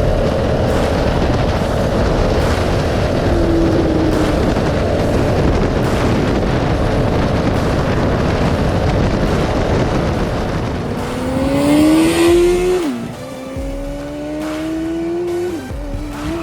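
A go-kart's Suzuki GSX-R 600 inline-four motorbike engine accelerating hard under heavy wind rush. In the last few seconds its note climbs, drops sharply with an upshift, and climbs again through a second upshift.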